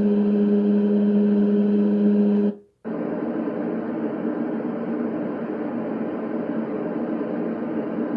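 A white noise machine's speaker plays its recorded small-fan sound, a steady electric-fan hum over a whooshing hiss. It fades out about two and a half seconds in, and after a brief silence the next track starts: a steady, even rushing noise without the hum.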